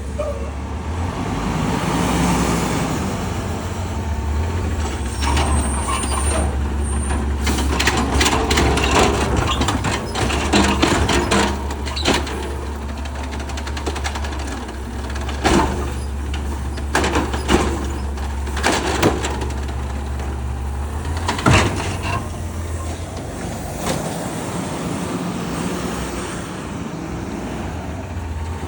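Garbage truck with its diesel engine running steadily, a hiss of air early on, then a long run of metallic clanks and bangs from about five seconds in to about twenty-two seconds as it lifts and empties a bin.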